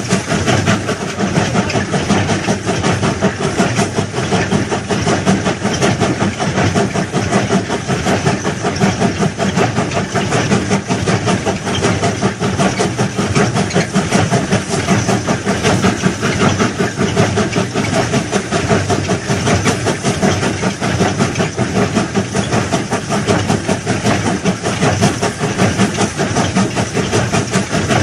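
Heavy railway track-laying machinery running steadily, a dense continuous mechanical noise with no pauses.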